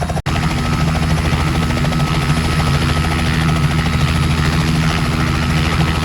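Helicopter rotor and engine noise: a steady, loud drone with a fast, even chop from the blades. It drops out for an instant about a quarter second in, then carries on unchanged.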